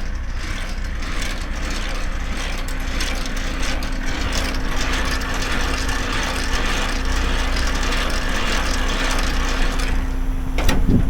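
Semi-truck's diesel engine running with a steady low drone, heard from inside the cab, under a constant rushing, crackling noise.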